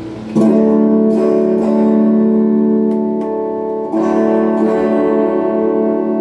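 Semi-hollow electric guitar, a Donner '72 Thinline-style clone, played through a phaser and a Klon-clone overdrive into a Peavey Backstage Plus amp. A chord is struck about half a second in and rings out, and a second chord is struck about four seconds in and rings on.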